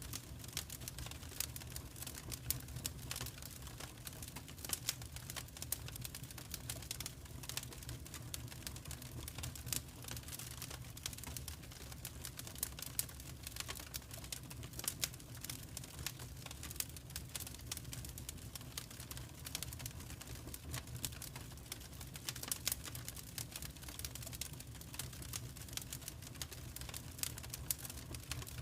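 Wood fire crackling: dense, irregular sharp pops and snaps over a steady low rumble.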